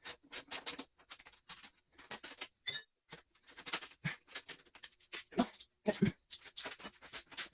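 Hand tools and engine parts being handled while a two-stroke dirt bike's top end is taken apart: scattered clicks and scrapes, with one sharp clink a little under three seconds in and a couple of dull knocks later on.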